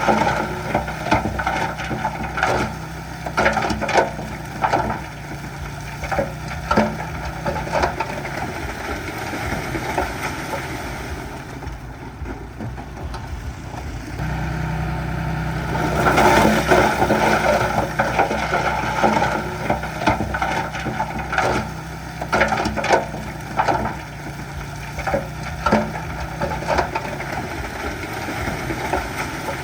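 Shantui bulldozer's engine running under load while stone crunches and scrapes under its blade and tracks, with frequent sharp cracks and clacks. The machine goes quieter for a few seconds about halfway through, then surges louder again.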